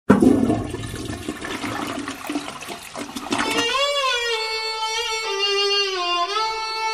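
A rushing, water-like whoosh for about three and a half seconds, then a single held note, bending slightly up and down in pitch.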